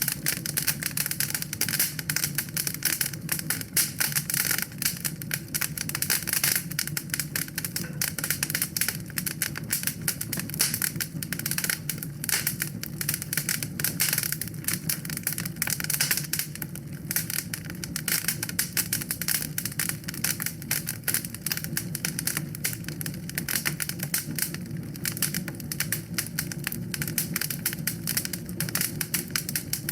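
Wood fire burning in a fireplace, crackling and popping continuously over a low steady rumble of the flames.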